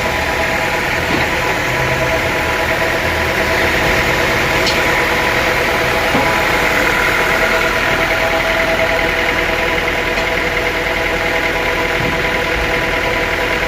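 Sawmill machinery running steadily: an even mechanical drone with several steady tones over it.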